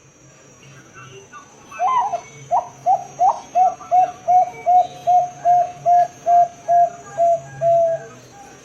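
Zebra dove (perkutut) cooing: a run of about fifteen short, evenly spaced notes, about two and a half a second. The first few are higher and more broken, and the rest hold one steady pitch.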